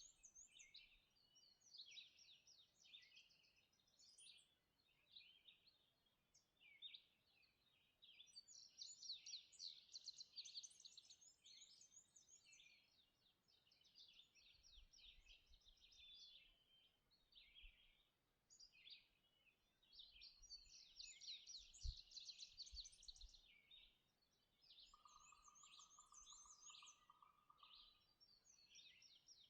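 Faint morning chorus of several songbirds singing at once, with rapid high trills and chirps overlapping continuously. A lower, buzzy trill joins for a few seconds near the end.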